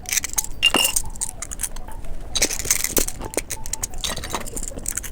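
A bicycle-shaped toy candy being handled and taken down: a run of small hard clicks and clinks, one with a brief ring under a second in.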